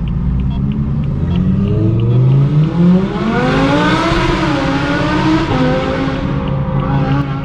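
Straight-piped BMW M4 F82 exhaust rising in pitch as the car accelerates for about three seconds, then easing off and settling into a steady drone.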